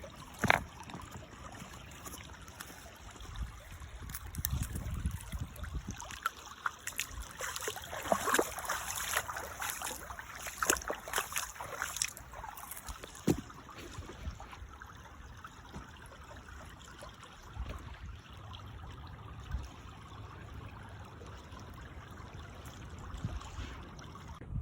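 A river's water trickling and flowing, with scattered short sharp sounds, busiest from about 4 to 13 seconds in, and wind buffeting the microphone at times.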